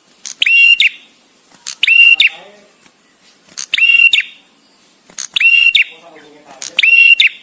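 Male prenjak tamu (a prinia) calling: five loud, sharp high-pitched phrases, each about half a second long, spaced about one and a half seconds apart with short pauses between.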